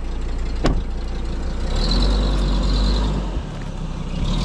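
A heavy machine's engine running with a steady low rumble, with a high whine coming in about two seconds in and again near the end. There is one sharp click under a second in.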